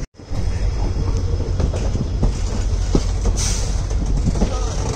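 Passenger train coaches running along the track: a steady low rumble with irregular sharp clacks of the wheels over the rails.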